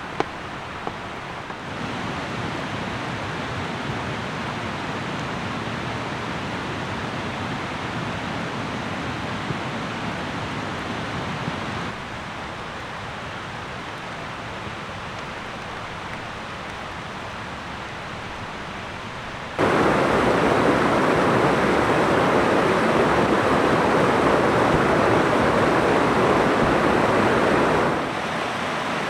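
Steady rain falling, an even hiss with no pauses. Its loudness jumps abruptly a few times, louder for a stretch about two-thirds in and dropping back near the end.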